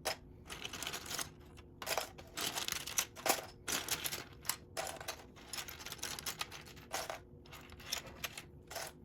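Loose plastic Lego pieces clicking and clattering as hands sift through a pile of them, a steady, irregular run of small rattles.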